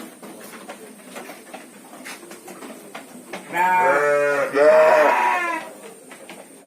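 Garut fighting sheep bleating: two long bleats one right after the other, starting about three and a half seconds in, with faint knocks and clicks around them.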